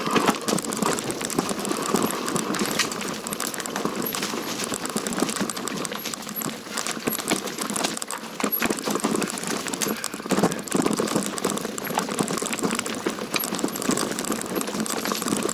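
Mountain bike rattling down a rocky, root-strewn trail: a continual clatter of chain slap, knocking parts and tyres hitting rocks and branches.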